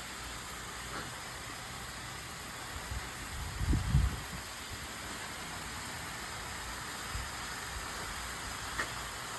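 Steady hiss of water spraying from a garden hose, with a brief low rumble about three and a half seconds in.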